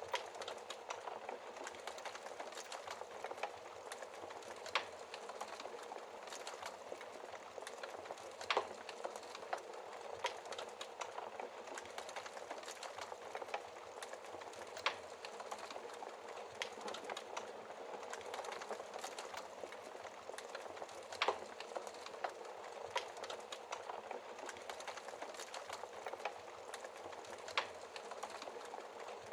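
Wood fire crackling in a fireplace: a steady hiss of small crackles, with a sharp, louder pop every few seconds, about five in all.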